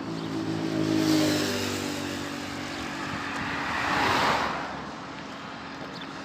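A motor vehicle passing by: a steady engine hum, then a rush of road noise that swells about four seconds in and fades away.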